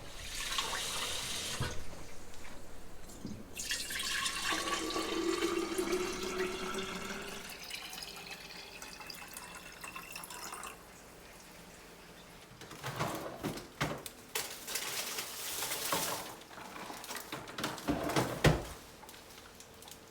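Kitchen tap water running into a sink or vessel in two spells, the longer one carrying a shifting ringing tone as the water hits and fills a container. In the second half, a run of knocks and clatters from dishes or utensils being handled.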